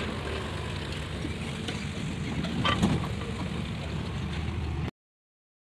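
Diesel engine of heavy earth-moving machinery running steadily, with a brief clank a little under three seconds in. The sound cuts off suddenly about five seconds in.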